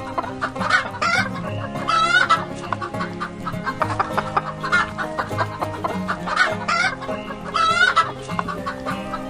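Chickens clucking, with several short wavering calls, over background music with a steady beat.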